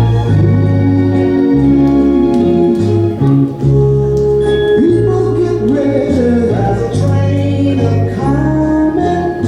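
Gospel music: singing over held instrumental notes and a steadily changing bass line.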